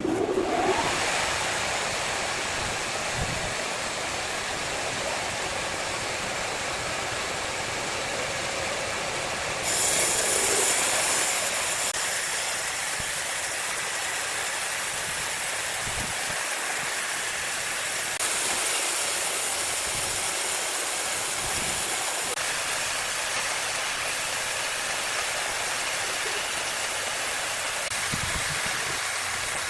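Large wood saw cutting through timber: a steady, loud hissing cut that gets brighter and louder about ten seconds in and again around eighteen seconds.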